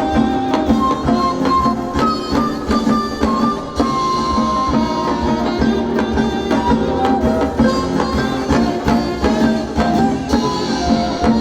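Live Korean traditional fusion (gugak) ensemble playing: drums and percussion keep a steady rhythm under a melodic line of held notes.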